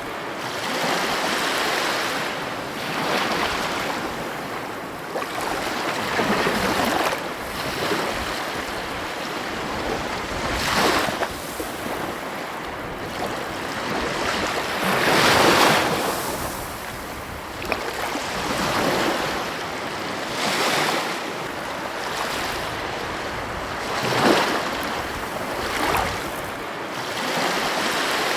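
Ocean surf on a beach: a steady rush of waves breaking and washing in, swelling and ebbing every few seconds, with the biggest surge about halfway through.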